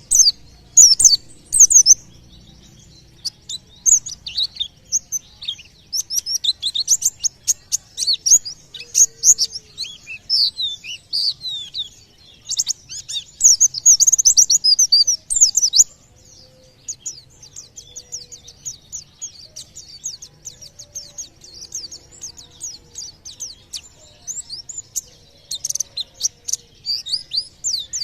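White-eye (pleci) singing: fast, high twittering chirps and trills in bouts, loudest about halfway through, then a quicker, softer run of rapid chirping. This song is believed to draw other birds nearby into singing.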